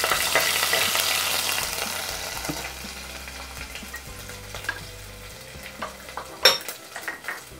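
Garlic and ginger paste sizzling in hot coconut oil in a clay pot, stirred at first, the sizzle loud as it hits the oil and then dying down. A single sharp tap about six and a half seconds in.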